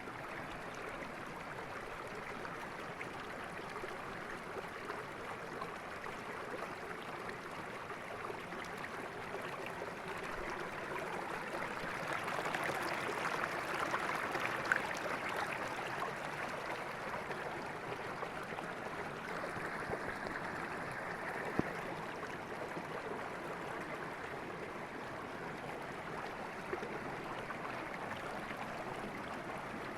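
River water rushing steadily, swelling a little louder about midway before easing back.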